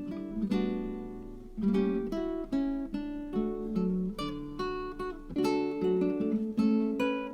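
Background music: acoustic guitar picking a steady run of plucked notes.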